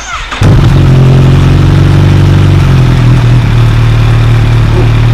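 Kawasaki H2 SX SE's supercharged inline-four, through a new Brocks aftermarket exhaust, starts up. It catches about half a second in and settles into a loud, deep, steady idle.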